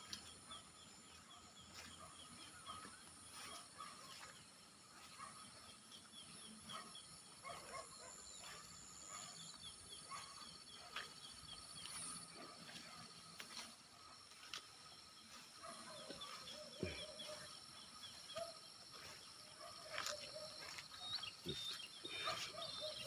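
Faint rice-field ambience: a steady high insect drone, with many short, repeated chirping calls and a few soft knocks.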